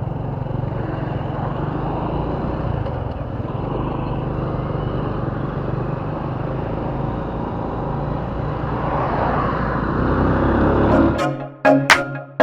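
Motorcycle engine running under way with steady road and wind noise. Music cuts in near the end.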